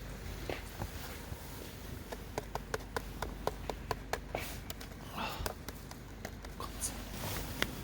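A run of light, quick taps or clicks, several a second, from about two seconds in to about four and a half seconds in, with a brief rustle after.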